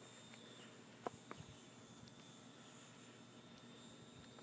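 Near silence: faint outdoor background with a thin, steady high-pitched tone and two soft clicks about a second in.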